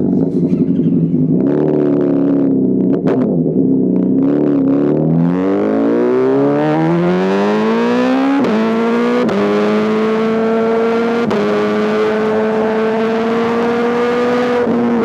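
2005 Honda CBR1000RR inline-four engine through an SC-Project exhaust. It runs low with a few light throttle blips, then accelerates hard from about five seconds in, the pitch rising through three quick upshifts, and then holds a steady cruise.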